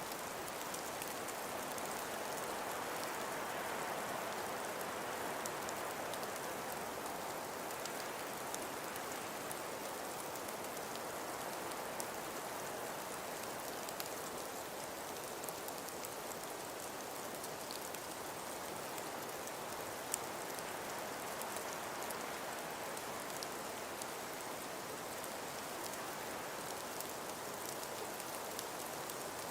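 Steady hiss of wind and falling snow, with a dense scatter of tiny ticks from grains striking surfaces, swelling slightly a few seconds in.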